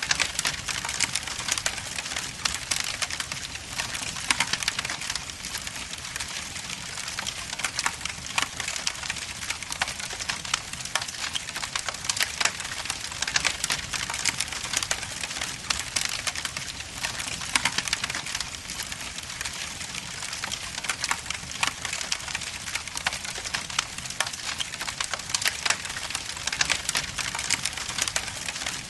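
Wood logs burning in a fireplace, with a dense, continuous crackle of small pops and snaps over a soft hiss.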